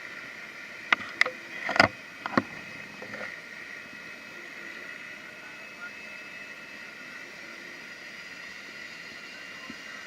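Turboprop seaplane engines running with a steady high whine, heard from a distance. A few sharp knocks come between about one and two and a half seconds in.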